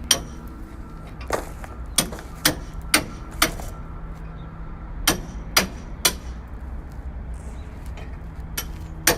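Hammer blows on a steel vehicle chassis during repair: about ten sharp strikes in groups of two to four, roughly half a second apart, over a steady low hum.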